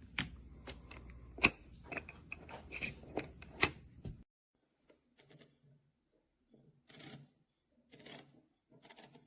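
Irregular sharp clicks and knocks of a Timemore S3 manual coffee grinder being handled, about seven in the first four seconds; the owner finds something on it broken and its handle rickety. After that only a few faint, soft rustles.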